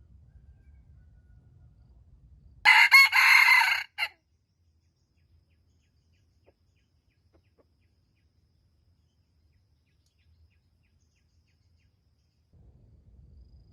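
A wild jungle fowl rooster crowing once, about three seconds in: one loud crow of about a second and a half, ending in a short clipped final note.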